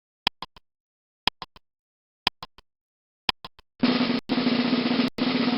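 Sound-effect clicks once a second, each a sharp click followed by two fainter ones, then a snare drum roll starting just before four seconds in, broken off briefly twice.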